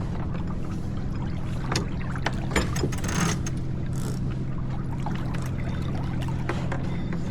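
Steady low rumble of a J24 sailboat under way, with a few clicks and knocks of deck gear about two seconds in and short hissing spells around three and four seconds in.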